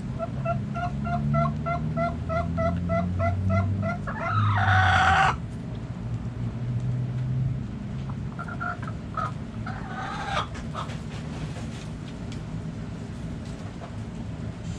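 Backyard chickens calling: a rapid run of clucks, about three a second, ends in a loud, harsh call about four seconds in. More clucking and a shorter loud call follow around ten seconds.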